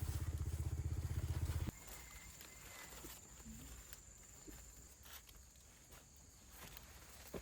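Small engine running with a rapid, even low pulse, then cut off suddenly about a second and a half in, leaving faint outdoor quiet with a few light clicks.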